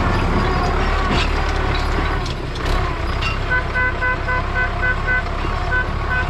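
Tractor engine running steadily under load, with a horn beeping in quick short repeated toots, about three a second, from about three and a half seconds in.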